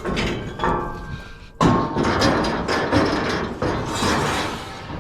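Heavy scrap metal clanking and scraping as a section of old farm equipment is shifted on a trailer, with a loud clatter starting about a second and a half in and some metallic ringing.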